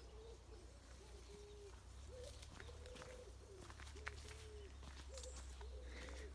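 A pigeon cooing faintly: a series of low, drawn-out coos repeated in groups, over a low steady rumble.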